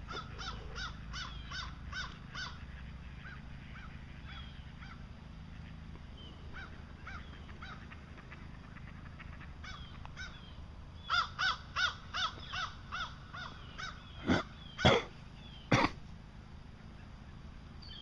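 A bird giving runs of short repeated calls, about three a second: one run at the start, scattered fainter calls, then a louder run about eleven seconds in that ends in three loud, sharp sounds.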